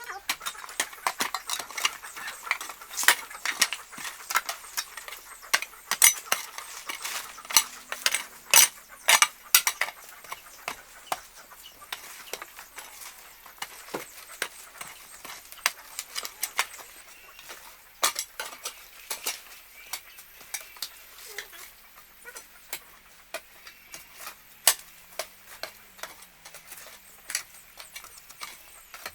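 A run of irregular sharp clicks and clattering knocks, busiest in the first ten seconds and sparser after.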